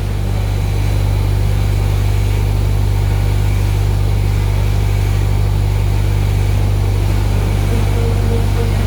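Automatic pull-out tissue folding machine running with a steady, unchanging low hum.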